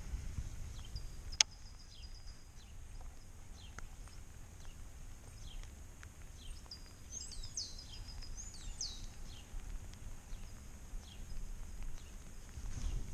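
Small birds chirping and singing: many short, high chirps throughout, with a couple of fuller song phrases about halfway through, over a low outdoor rumble. A single sharp click about a second and a half in.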